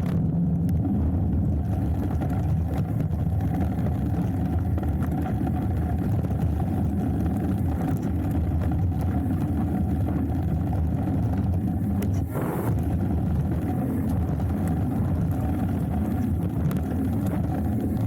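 Steady low rumble of wind buffeting the action-camera microphone and hardtail mountain bike tyres rolling over a dirt trail during a descent, with a brief sharper burst of noise about twelve seconds in.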